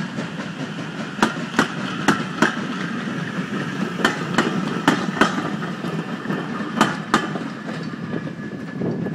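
Passenger coaches of a heritage steam train rolling past, their wheels clicking over rail joints in quick pairs above a steady rumble. The clicks stop after about seven seconds as the last coaches go by.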